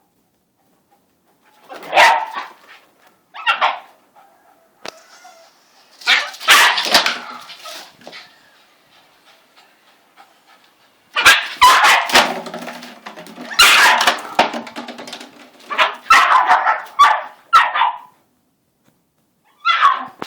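A dog barking repeatedly in several loud, short bouts with quiet pauses between, as it goes at a rooster it is fighting.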